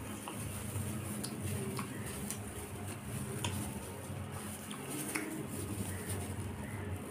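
Close-miked eating: chewing with small wet clicks and crackles scattered through, over a steady low hum.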